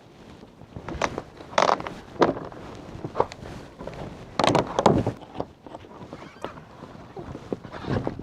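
Irregular knocks, clatter and scraping from building materials being handled during outdoor coop work, with several sharp hits: the loudest come about two seconds in and again around the middle.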